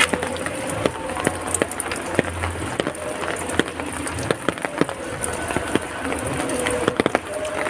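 Steady rain with many individual drops tapping and dripping on hard surfaces.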